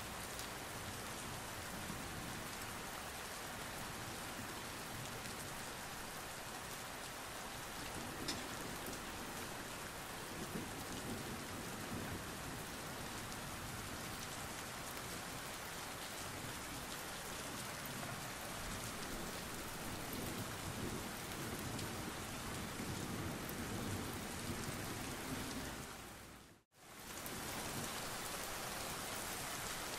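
Steady rain falling, an even hiss, with a low rumble coming and going through the second half. The sound fades out briefly and returns near the end.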